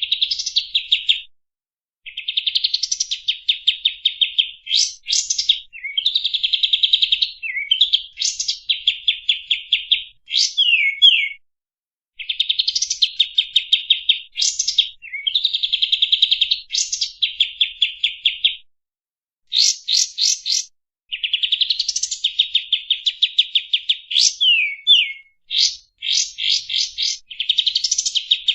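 Kapas tembak bird singing in a masteran recording: loud, repeated phrases of fast, rattling trilled notes, each about one to three seconds long. Quick descending whistles and short pauses come between the phrases.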